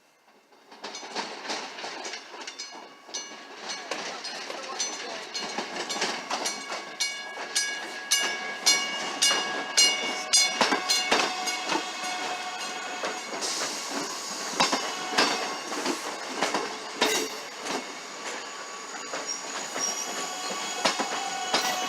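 An electric commuter train rolling slowly past. Its wheels click over rail joints and switches at an uneven pace, and a thin, high wheel squeal comes and goes.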